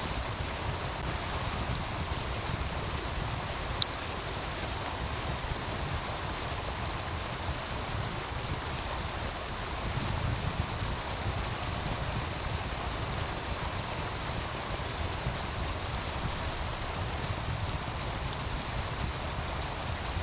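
Wood fire crackling with scattered sharp pops, one louder pop about four seconds in, over the steady rush of a meltwater stream and a low rumble of wind.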